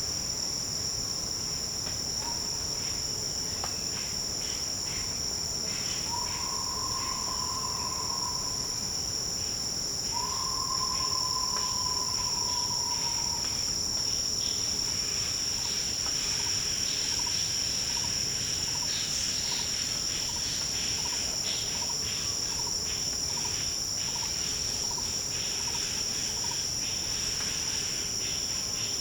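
Forest insect chorus, a continuous high-pitched drone with fainter chirping beneath it. About a quarter of the way in come two long, slightly falling whistled notes. They are followed by a steady run of short, evenly spaced calls, about two a second, from another animal.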